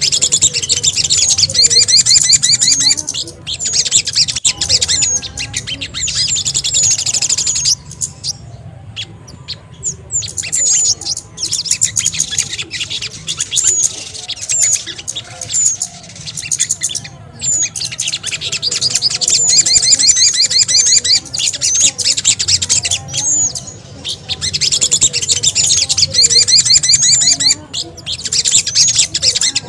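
Recorded bird-lure calls of small songbirds (sogon and kemede/bangcit), loud, rapid, high-pitched chirping and twittering in long busy runs, with a quieter lull about a third of the way in.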